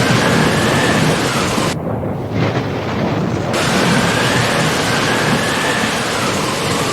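Thunderstorm ambience: steady heavy rain with a low rumble. The high hiss drops out suddenly for about two seconds near the middle, then returns.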